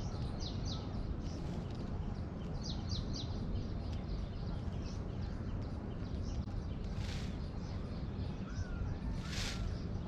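Birds calling outdoors: quick high chirps in small groups near the start and about three seconds in, and harsh calls about seven and nine and a half seconds in, over a steady low rumble.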